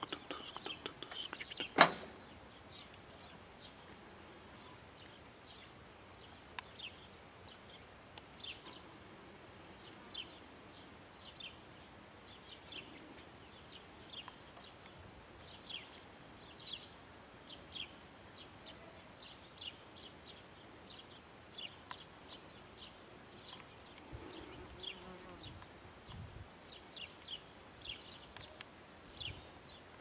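Small birds chirping outdoors: short, high, falling notes repeated irregularly about once a second, over a steady faint hiss and a thin high tone. There is a single sharp click about two seconds in.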